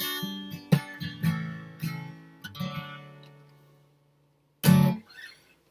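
Acoustic guitar strummed in a short closing run of chords. The chords die away to silence, and a single loud final strum follows near the end.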